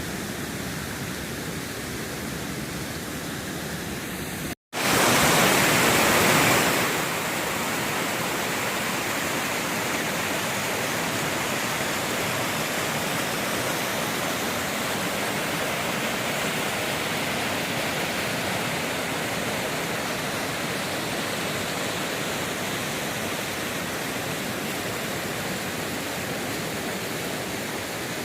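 Steady rushing of a waterfall. Near the start the sound cuts out for an instant, comes back louder for about two seconds, then settles to an even rush.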